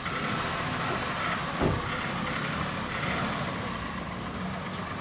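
Steady motor-vehicle noise, with a single sharp knock about one and a half seconds in.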